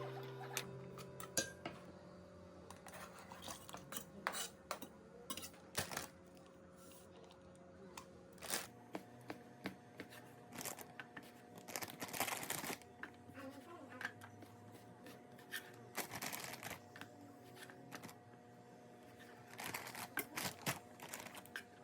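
Kitchen handling sounds: scattered clinks and knocks of dishes and utensils, with a few longer rustling or scraping stretches, over a faint steady hum.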